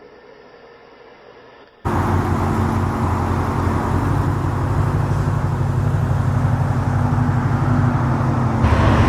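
A car engine running steadily with a deep, even note. It comes in abruptly about two seconds in, and near the end a brighter, hissier layer joins it.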